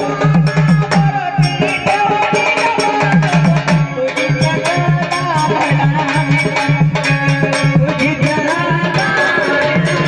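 Maharashtrian Waghya devotional folk music without vocals: sambal drums beat a quick rhythm under an organ melody.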